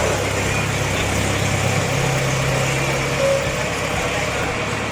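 A heavy vehicle's engine running steadily, its low note stepping up in pitch about two seconds in as it is revved, with faint voices in the background.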